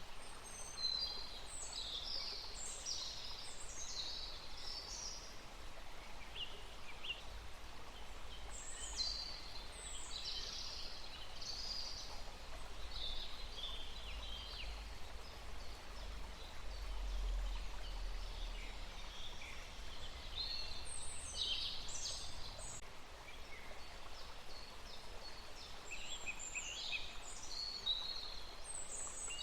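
Songbirds singing in four bouts of quick, high, mostly falling notes, over a steady outdoor hiss like running water. A low rumble comes in about halfway through.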